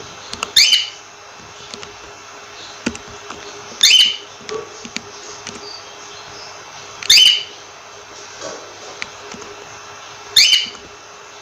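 Cockatiel calling: four short, loud, shrill chirps, evenly spaced about three seconds apart, with faint clicks between them over a steady background hiss.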